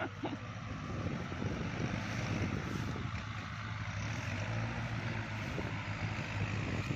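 Kubota diesel tractor engine running steadily under load, working a rotary tiller through wet, sticky mud, getting a little louder over the first couple of seconds.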